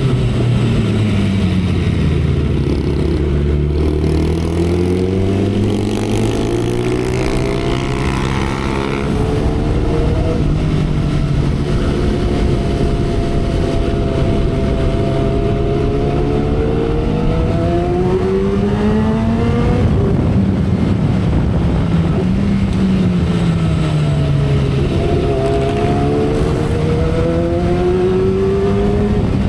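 2012 Kawasaki Ninja ZX-10R's inline-four engine under way on the road, heard from the rider's seat with steady wind rush. Its pitch falls over the first few seconds, climbs and holds steady, then rises and dips again with throttle changes in the second half.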